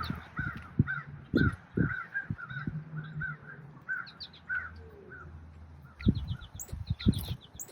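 Wild birds calling at a backyard feeder: a rapid series of short call notes, about three a second, with a few higher chirps later. There are a few low thumps, and faint bass music runs underneath until about six seconds in.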